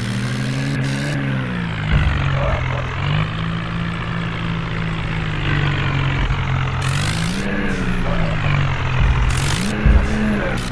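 Tractor engine running steadily, its pitch rising and falling back briefly as it revs: once about a second in and twice near the end.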